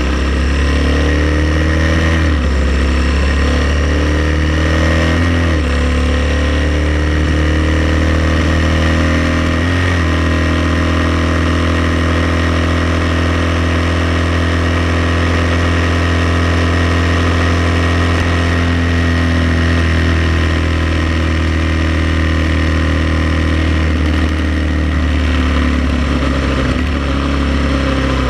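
Honda Transalp XL700's V-twin engine running while the bike is ridden, its note rising and falling a few times in the first ten seconds and then holding steady, over a constant hiss of wind and road noise.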